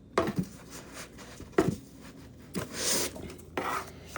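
Parts and packaging being handled while unboxing: a few sharp knocks and clicks, and a short rustle about three seconds in.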